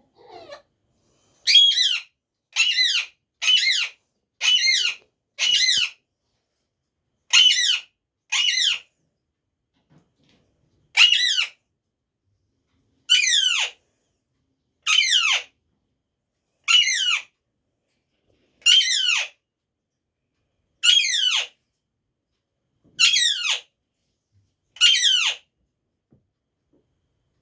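Parrot giving a repeated high call about fifteen times: five in quick succession, then a pair, then one every two seconds or so. Each call drops in pitch at its end.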